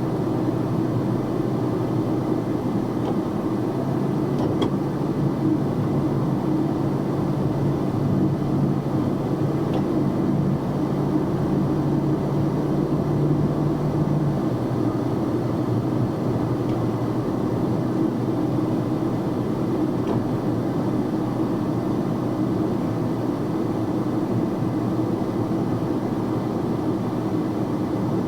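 Steady engine and road noise of a box truck driving, heard inside the cab. An engine hum rises out of the noise about four seconds in and drops away about halfway through.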